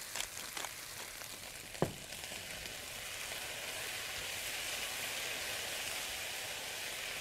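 Diced potatoes and garlic sizzling in oil in a skillet while being stirred with a silicone spatula. A pepper mill grinds over the pan at the start, and a single sharp knock comes about two seconds in.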